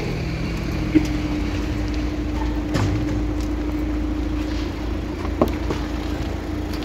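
Car engine idling: a steady hum over a low rumble, with three light clicks.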